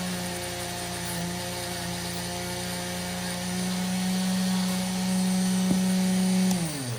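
Foredom flex-shaft rotary tool running at a steady high speed while it polishes a pocketknife blade. Near the end it is switched off, and its hum drops in pitch as the motor spins down.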